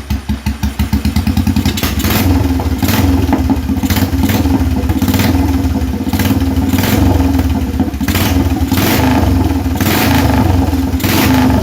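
Royal Enfield Bullet 350's single-cylinder four-stroke engine running on an open exhaust with no silencer: it idles with distinct, evenly spaced firing pulses, then about a second in it is revved up and held at higher revs, with throttle blips about once a second.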